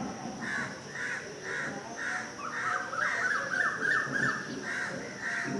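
Bird calls repeated about twice a second, with a quicker run of short falling notes around the middle.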